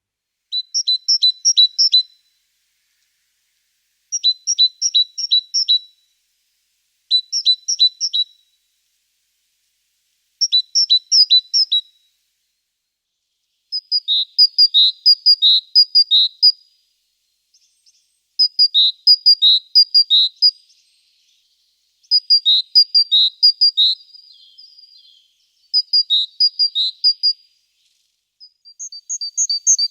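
A small songbird singing short phrases of quickly repeated two-note syllables, high-pitched, about nine phrases with short pauses between them. The later phrases change to a slightly different note pattern.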